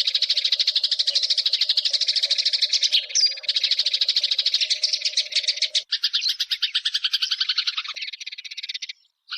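Eurasian tree sparrows (burung gereja) chirping in a rapid, continuous chatter of many short chirps a second. The chatter changes character about six seconds in and breaks off briefly near the end.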